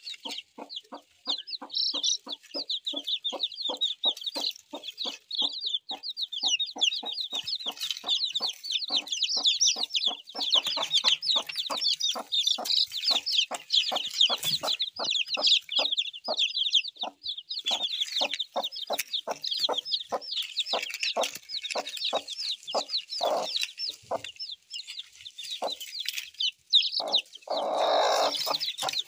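Chickens clucking in a quick, even series of about three calls a second, under dense high-pitched chirping, with one longer, louder call near the end.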